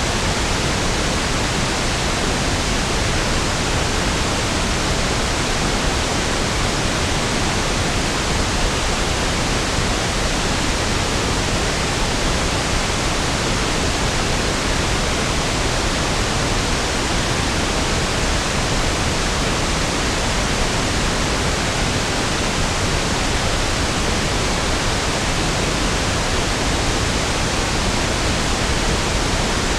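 Pink noise (1/f noise): a steady, even hiss spread across all pitches with equal energy per octave, smoother and deeper than white noise, with no change over time.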